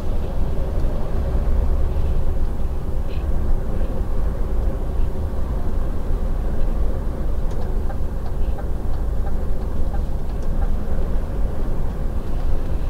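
Semi-truck cruising on the motorway: a steady low engine drone and road rumble heard inside the cab.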